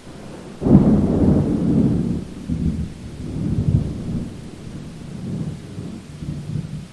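A thunderclap breaks about half a second in, then rolls on as a low rumble with a couple of smaller swells, over the steady hiss of rain.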